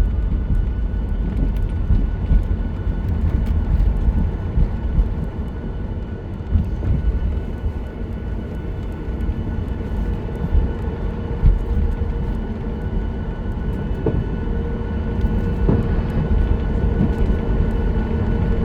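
Steady low rumble of a Boeing 737-9 MAX heard from inside the passenger cabin: engine noise and airflow, with faint steady tones above it.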